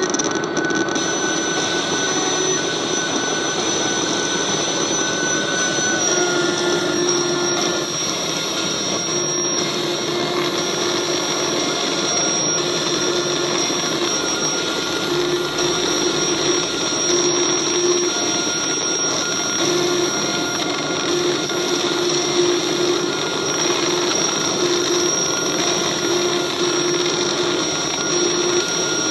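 Glitchy electronic noise from a circuit-bent Korg DDD-1 drum machine, its digital signals patched through a manipulator effect: a dense, steady roar of hiss with thin high whistling tones that shift slightly in pitch about six seconds in. From then on a low tone stutters on and off irregularly.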